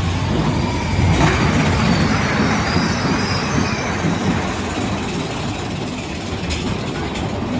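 Big Thunder Mountain Railroad's mine-train roller coaster cars rolling along the track: a steady low rumble of wheels on rail that swells with a rush of noise about a second in.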